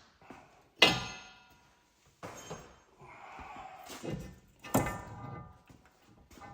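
Metal tools and parts being handled, clanking with a ringing note after each hit: several sharp clangs, the loudest about a second in and another strong one near the end.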